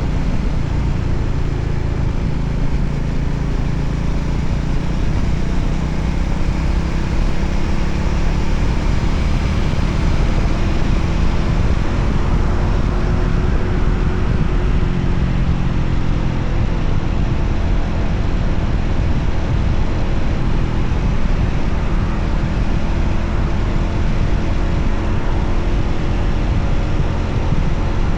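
Voge 300ACX motorcycle engine running steadily while riding, mixed with wind and road noise; the engine pitch drifts slightly up and down.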